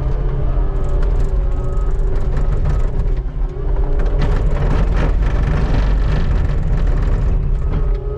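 Skid steer engine running steadily, with a harsh scraping noise from about four to seven seconds in as the bucket scrapes snow off the pavement.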